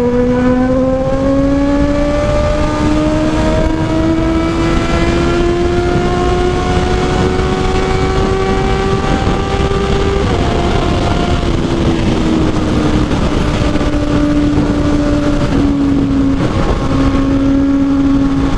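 Honda CB650R's inline-four engine under hard throttle at high speed, its note climbing slowly for about ten seconds, dipping, then holding a steady high drone and falling away near the end. Heavy wind rush on the microphone underneath.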